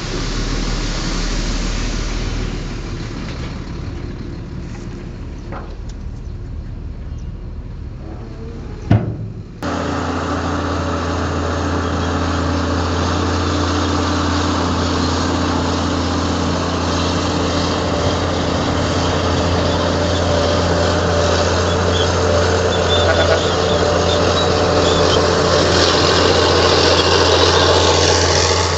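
Heavy diesel engine of a bulldozer running. About a third of the way in there is a sharp knock, and then the sound jumps abruptly to a louder, steady engine drone with a deep hum.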